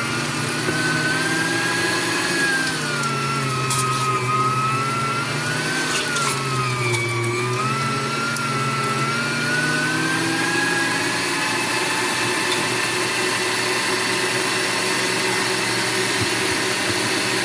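Electric meat grinder running with a steady whine that dips in pitch twice and recovers, the motor slowing as it takes the load of beef being ground. A few brief clicks near the middle.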